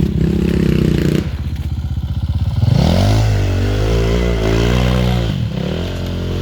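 Enduro motorcycle engine revving hard: steady for the first couple of seconds, then the revs climb steeply about three seconds in, hold high for about two seconds and drop off, rising again near the end.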